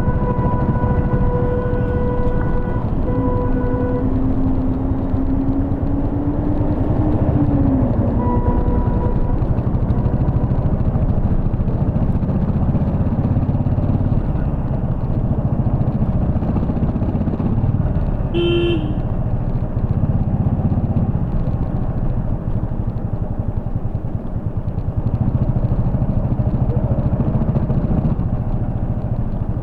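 Royal Enfield Bullet 350 Electra's single-cylinder engine running on the move, a steady low rumble. Vehicle horns honk over it: a held horn at the start, another tone sliding up and down a few seconds in, and a short sharp toot about two thirds of the way through.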